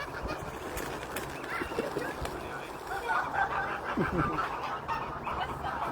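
A group of geese calling, with scattered calls at first and a rapid run of short calls from about three seconds in.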